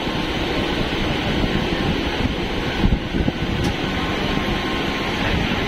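Electric multiple-unit (EMU) suburban local train running, heard from on board: a steady, loud rumble and rush of air with no horn or braking.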